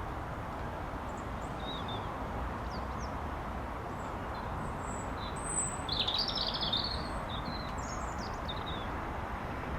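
Small songbirds chirping in short high calls, with a busier burst about six seconds in, over a steady low background rumble.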